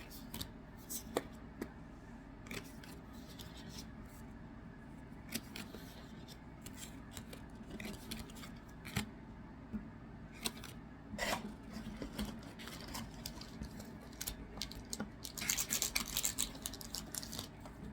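Trading cards and booster-pack wrappers being handled: scattered light clicks and snaps as cards are flipped and stacked, with a denser burst of crisp rustling near the end.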